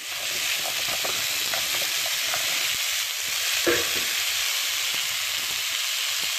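Raw pumpkin cubes, sliced onion, garlic and ginger sizzling in melted butter in a pan, a steady hiss, while being stirred with a few light clicks of the utensil.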